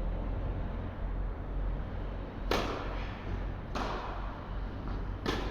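Three sharp tennis ball impacts, about a second and a half apart, from racket strokes and a bounce during a rally, over a steady low hum.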